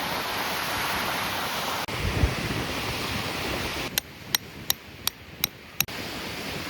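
Strong wind rushing over the microphone, with a low buffeting thump. Then, after a cut, a peg hammer strikes a tent peg six times, sharp and evenly spaced at about three a second, driving it into the ground.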